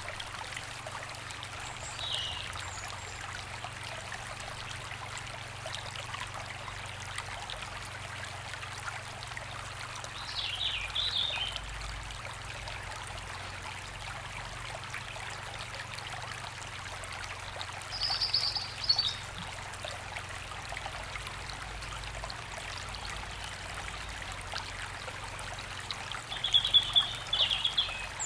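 A river flowing with a steady rushing sound, with songbirds in the trees giving four short high phrases spaced several seconds apart, the loudest near the end.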